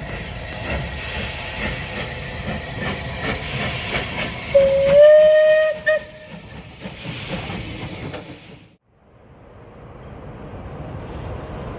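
A train running at a heritage railway, with a steady rumble and light clicking. About halfway through, a locomotive whistle sounds one loud blast of about a second and a half, rising slightly in pitch, followed by a short toot. Later the sound drops out for a moment and comes back as a steady rumble.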